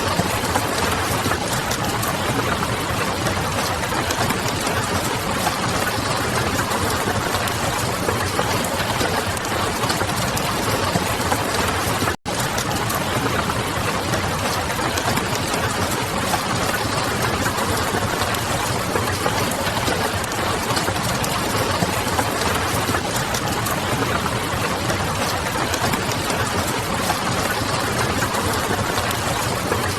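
Steady rain mixed with the crackle of a wood fire, an even dense hiss. About 12 seconds in, the whole sound cuts out for a split second and comes straight back.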